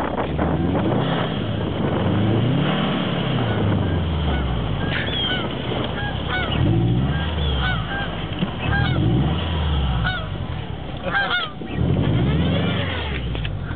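Car engine revving up and down over and over as the car is thrown sideways in snow, with short high chirps and squeaks mixed in from about five to twelve seconds in.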